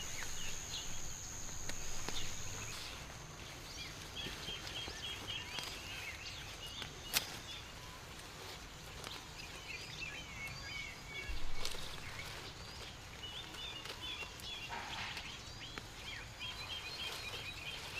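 Small birds chirping in short repeated trills over quiet outdoor background noise. A high steady whine stops about three seconds in, a sharp click sounds about seven seconds in, and there is a brief louder rustle near the middle.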